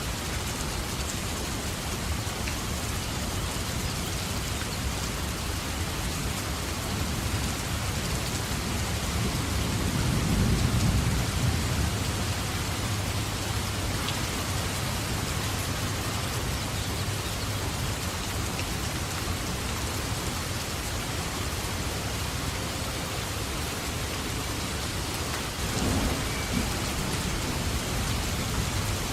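Steady rain falling, with a low thunder rumble swelling about ten seconds in and a shorter rumble near the end.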